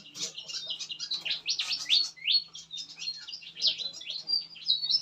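Many small songbirds in a mixed aviary chirping and calling at once, a dense overlapping chatter of short high chirps and quick downward-sweeping notes.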